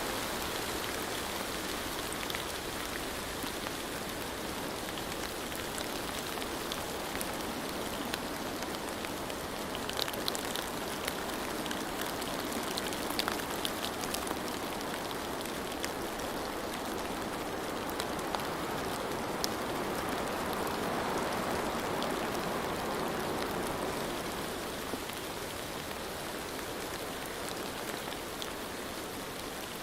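Steady rain falling, an even hiss with scattered sharp drop taps. It swells slightly for a few seconds past the middle, then eases back.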